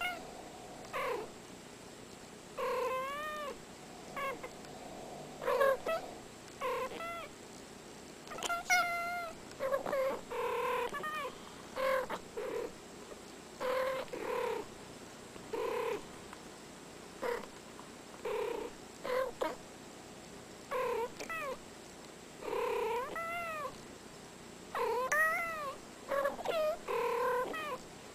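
Two domestic cats trading short meows back and forth, about one call a second. Many calls rise and then fall in pitch, and a few are drawn out into trills.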